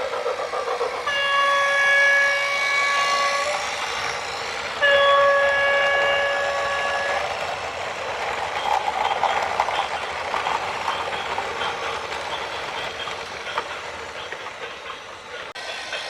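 Two long blasts of a single-pitched horn, each about two and a half seconds, over a continuous rumbling clatter.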